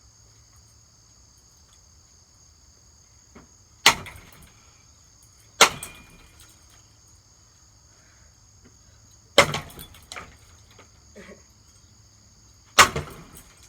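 Four hard hammer blows on a Hampton Bay ceiling fan, each a sharp crack, some followed by a short rattle of loose parts. Crickets chirr steadily in the background.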